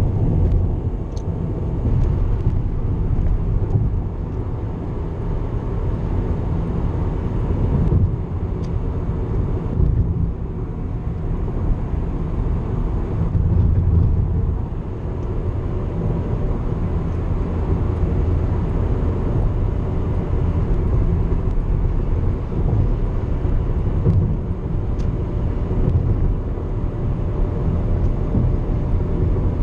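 Steady road and engine noise inside a car's cabin at freeway speed: a low rumble with a few faint steady tones above it.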